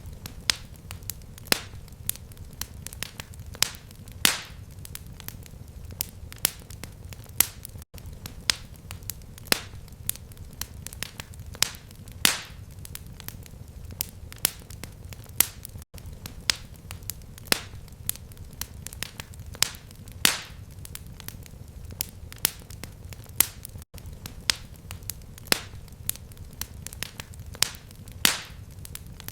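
Fireplace fire crackling: irregular sharp pops and snaps, several a second with a few louder ones, over a low steady rumble of flame. The sound cuts out for an instant about every eight seconds.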